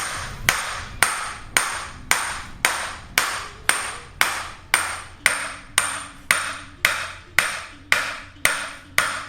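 Steady hammer blows, about two a second, on a large 36 mm socket driving the front hub into a new wheel bearing. Each strike rings with a high metallic ping.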